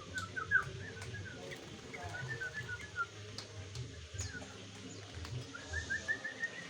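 Sooty-headed bulbul (kutilang) calling in short chirping notes, with a quick run of rising notes near the end.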